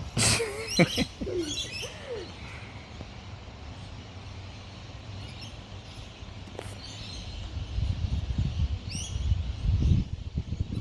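Small birds chirping, with a short loud gliding call or cry in the first second or two and a low rumbling noise near the end.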